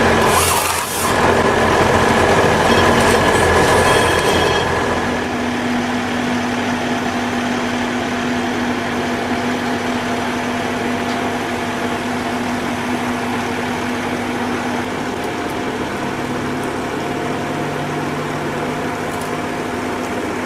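Engine of a heavy machine running steadily, louder and busier for the first five seconds, with a short hiss about half a second in, then settling to an even run.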